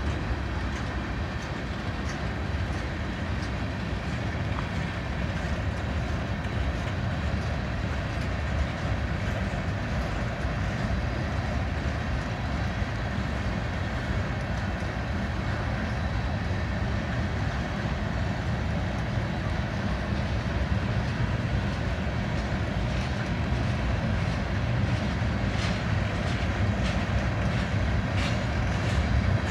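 Freight cars of a slow manifest train, tank cars and covered hoppers, rolling past: a steady rumble of steel wheels on the rails, with a few faint clicks near the end.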